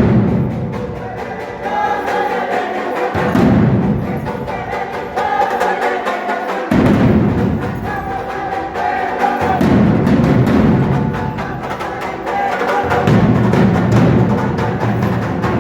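Drum-led percussion music for a traditional dance group, with a constant fast clicking over it. The low drum beat comes in phrases a few seconds long, and a higher melodic line runs above.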